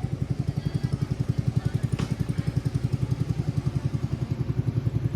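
A small engine idling with a steady, fast putter.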